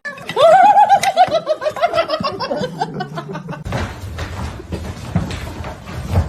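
A high-pitched laugh: a quick run of 'ha's that rises, then slowly falls in pitch and fades. Background music with drums comes in about four seconds in.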